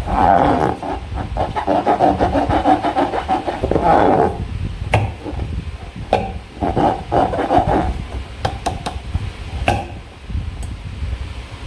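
Slime being squeezed and worked by hand: sticky crackling with many small clicks and pops, densest in the first four seconds and coming in shorter bursts after that.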